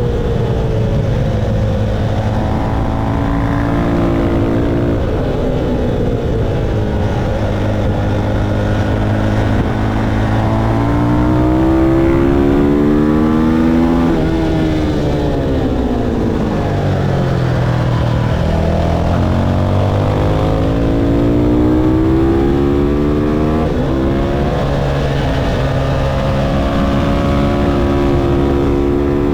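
Motorcycle engine at track speed. Its pitch climbs under acceleration, falls away through a long slowdown about midway, then climbs again.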